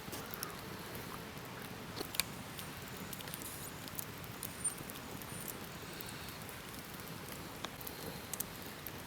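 Scattered small sharp clicks and ticks at irregular intervals over a soft steady hiss.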